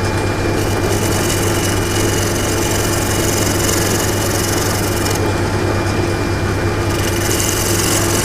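Wood lathe running steadily while a gouge takes fine cuts in the spinning wood, the shavings coming off with a light hiss. The cutting hiss stops for a second or two a little past halfway, then starts again over the lathe's hum.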